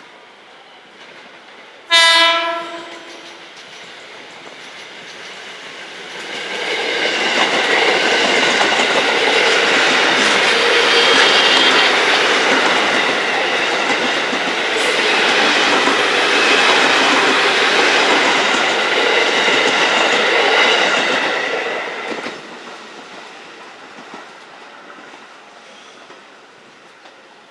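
A train horn gives one short, loud blast about two seconds in. Then a train passes close by for about fifteen seconds, loud and steady with some high tones in the noise, and fades away.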